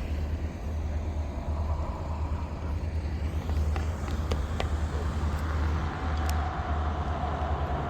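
Low, steady vehicle rumble, with a few faint clicks about halfway through.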